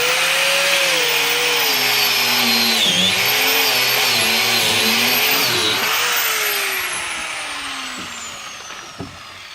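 Angle grinder cutting through a car's steel exhaust, its whine dipping twice as the disc bogs down in the cut over a bright grinding hiss. From about six seconds in the disc winds down in a long falling whine.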